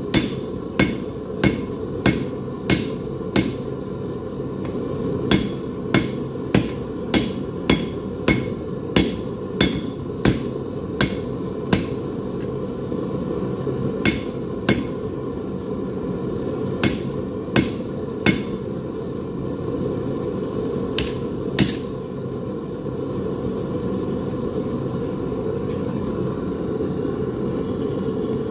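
Hand-hammer blows forging hot 5160 spring steel: sharp ringing strikes in runs of about one and a half a second, with short pauses between runs, stopping about three-quarters of the way through. A steady low rush continues underneath.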